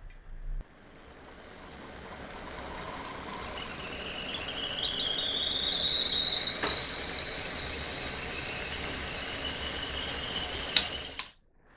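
Stovetop whistling kettle reaching the boil: its whistle starts faint and grows steadily louder while rising in pitch, then stops abruptly near the end as the kettle comes off the heat.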